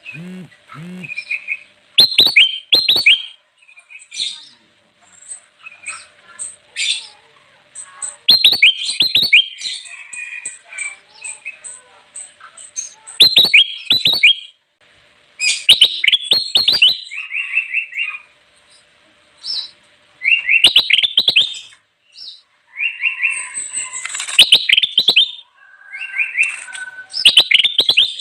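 Kutilang emas (a bulbul) singing: loud, quick bubbly phrases of a second or two, repeated every few seconds with short pauses between.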